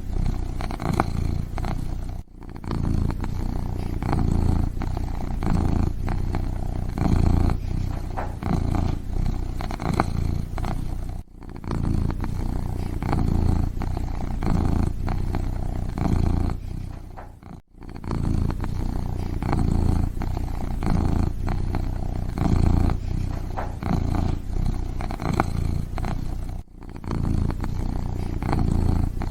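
Kitten purring close up, a steady low rumbling purr broken by a few brief gaps.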